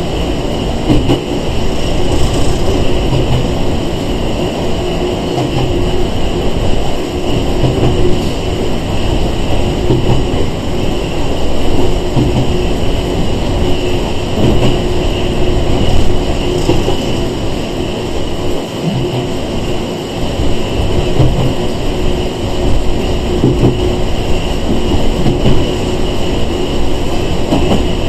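Running noise inside a Sangi Railway 101 series (ex-Seibu 401 series) electric train travelling steadily, with a steady hum and wheels knocking over rail joints now and then.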